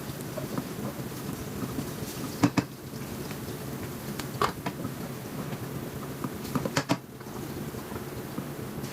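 Hot oil sizzling steadily as food fries, with a few sharp knocks: one about two and a half seconds in, another around four and a half seconds, and a short cluster just before seven seconds.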